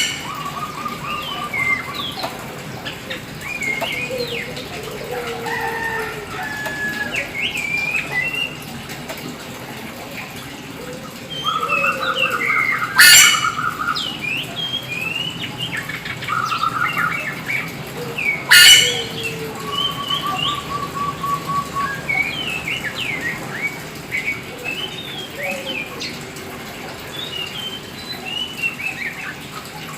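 A black oriental magpie-robin (kacer hitam) singing hard, with a continuous run of varied whistled phrases, rising and falling slurs and short buzzy trills. Two loud, sharp harsh bursts come near the middle and again a few seconds later, and are the loudest sounds.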